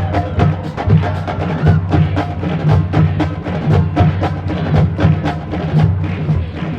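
Marching band music led by percussion: rapid, sharp drum and stick strokes over steady low tones.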